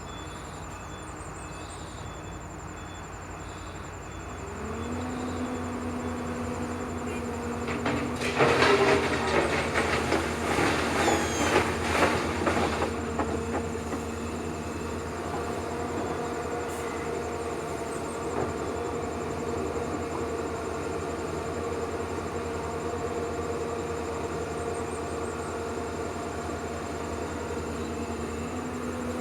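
A steady motor hum that rises in pitch about four and a half seconds in and then holds, with a louder rough, noisy stretch from about eight to thirteen seconds.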